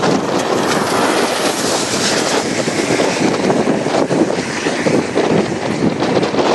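Strong storm wind blowing across the microphone: a loud, steady rushing noise with uneven gusts.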